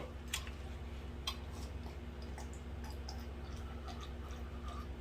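Faint chewing and mouth sounds of a person eating, a few soft irregular clicks and smacks, over a steady low hum.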